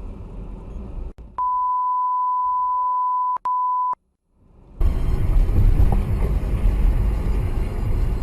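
A single steady high beep lasts about two and a half seconds, with one very short break near its end. About a second after it stops, the loud, even road and engine noise of a car driving, as heard on a dashcam, fades in.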